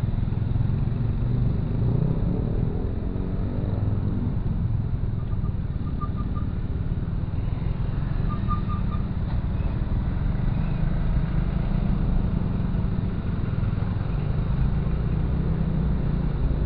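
Motorcycle engine running with steady low road rumble while riding in slow traffic. Two short runs of faint high beeps cut through, about five and eight seconds in.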